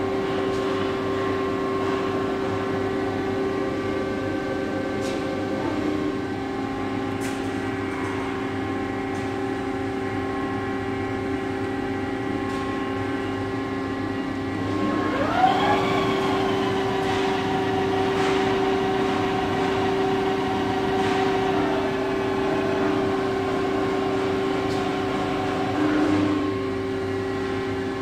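Gildemeister MD6S CNC lathe running with a steady machine hum and whine. About halfway through, a motor tone sweeps up in pitch and holds at the higher note until near the end.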